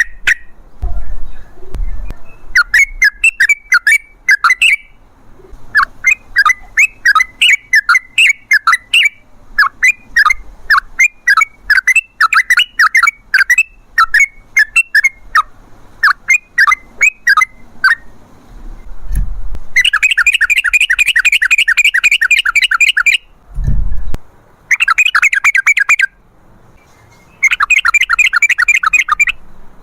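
Yellow-vented bulbul (trucukan) calling: long runs of quick, bubbly chattering notes, then from about 20 s three harsher rapid rattling bursts. Two low thumps come near the middle.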